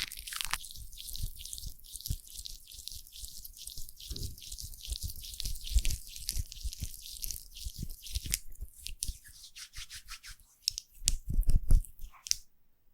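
Foam crackling and squishing close to the microphone: a dense fizz of tiny pops with occasional soft, heavier squelches, stopping abruptly near the end.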